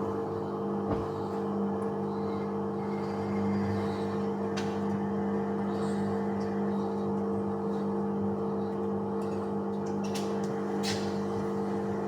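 Bauknecht WAS 1400 washing machine running with a steady machine hum, with a few faint clicks.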